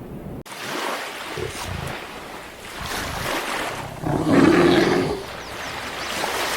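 A large animal calling with a low roar, loudest about four to five seconds in, over a steady noisy background.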